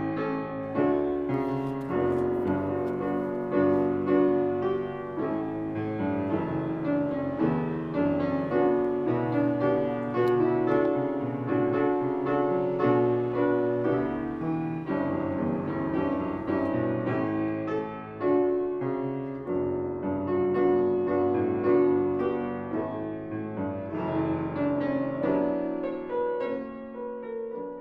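Solo piano music, many notes ringing over one another, dying away near the end.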